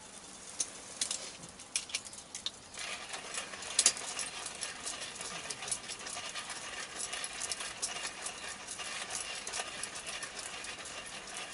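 Wood fire crackling with sharp pops. From about three seconds in, a steady hiss full of crackles sets in, and it cuts off suddenly at the end.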